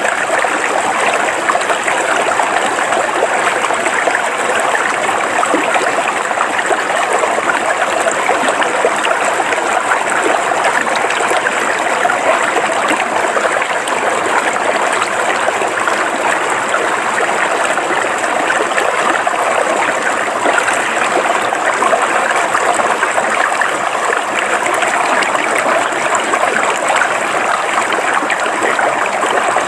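River water flowing steadily over rocks, an even babble and trickle that keeps up without a break.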